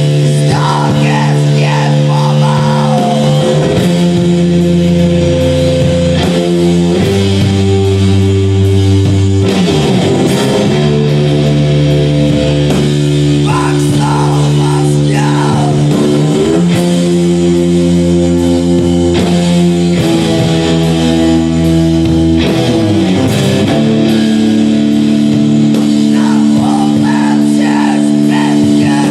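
Live rock music played loud: guitar and bass hold long sustained chords that change every few seconds. A higher wavering melody line comes in at intervals.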